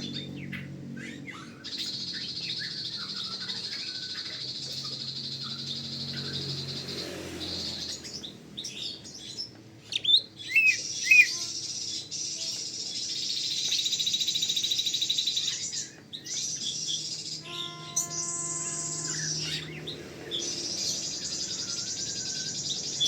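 Green leafbird (cucak ijo) singing a busy, varied song of sharp chirps and whistles, loudest about ten seconds in, over a steady high-pitched trill.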